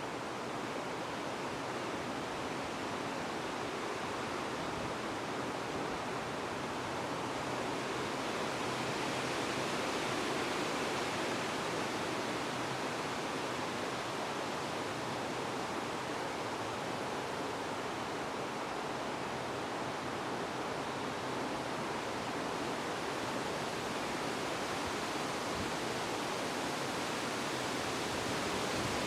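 Wind blowing steadily, a broad even hiss that swells slightly about a third of the way in.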